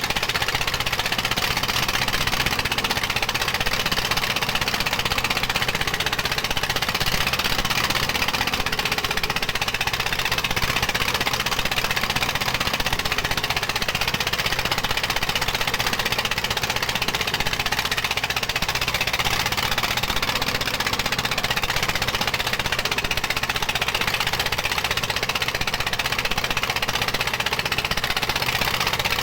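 Dong Feng diesel engine running steadily at a gold-mining rig, a constant unbroken engine noise.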